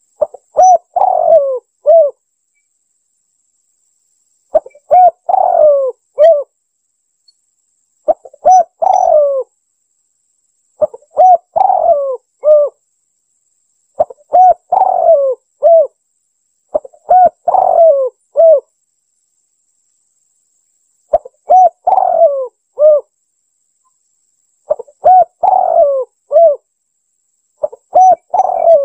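Spotted dove (tekukur) cooing: the same phrase repeated about nine times, every three to four seconds, with silence between. Each phrase has a couple of short coos, a longer falling coo, then a final coo.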